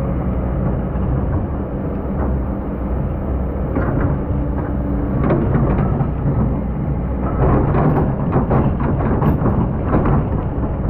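Excavator's diesel engine running steadily under load. From about halfway, and most densely near the end, come rapid knocks and clatter as the bucket digs and scrapes through sand.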